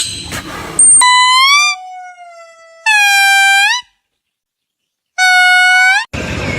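A series of clean, pitched, horn-like honks, three in all, each about a second long, with dead silence before the last one.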